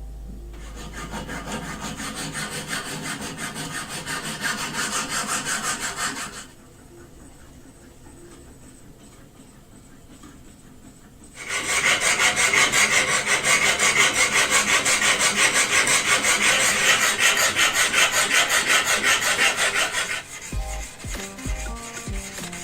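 Quick, rhythmic back-and-forth rubbing of an abrasive on the knife during hand finishing, about three strokes a second. The strokes go quieter for a few seconds about six seconds in, then come back louder and stop near the end.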